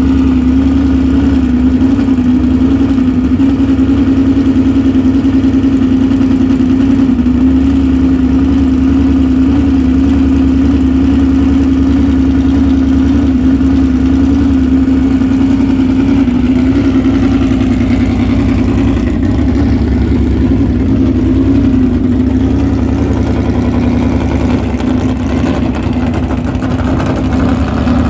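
Car engine running at a steady speed, a constant hum that wavers slightly in pitch.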